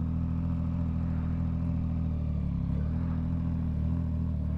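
Yamaha MT-09 motorcycle's inline three-cylinder engine running steadily under way, its pitch shifting slightly about halfway through.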